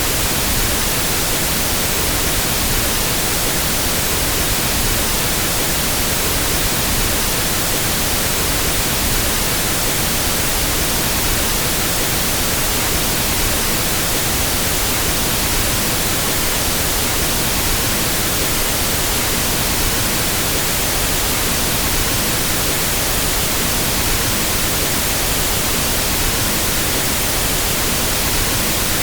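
Pink noise test signal: a steady, unchanging hiss across the whole frequency range, used for equalizing a sound system.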